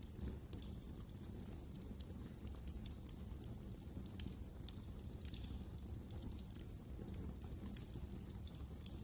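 Wood fire crackling in a fireplace: many small irregular pops and snaps over a steady low rumble from the burning logs.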